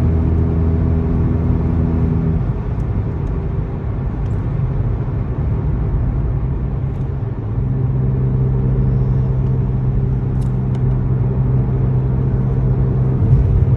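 Car exhaust drone with an aftermarket TCR muffler and downpipe at highway cruise, heard inside the cabin over tyre and road noise. A steady low hum fades out about two seconds in and comes back at a higher pitch about halfway through as engine speed changes.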